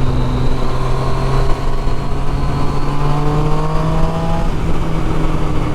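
Triumph Street Triple 675's three-cylinder engine, through a loud exhaust, pulling under acceleration. Its pitch climbs steadily for a few seconds, then drops at an upshift about four and a half seconds in and carries on.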